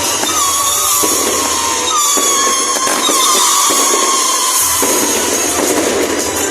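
Fireworks going off: several whistles, each sliding down in pitch over about a second, over a dense crackle.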